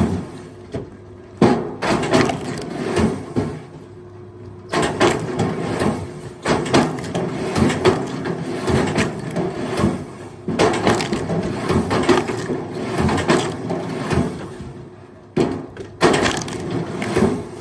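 Pieces of firewood clattering and knocking against each other as they are thrown onto a pile, in dense runs with short pauses, over a steady faint motor hum.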